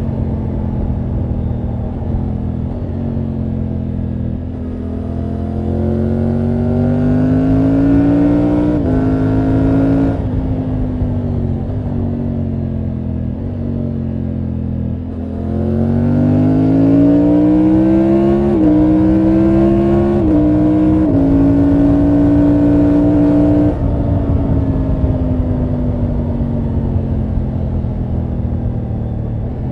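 Triumph Tiger 900 GT Pro's three-cylinder engine and exhaust under way. It pulls hard twice, its pitch rising with small steps down at the upshifts, then falls back each time the throttle closes and the bike slows.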